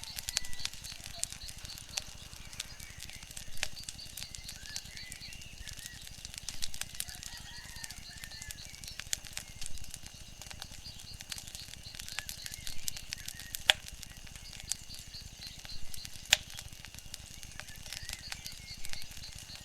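Wood fire crackling: irregular sharp pops and snaps, several a second, over a steady soft hiss, with one louder pop about two-thirds of the way in.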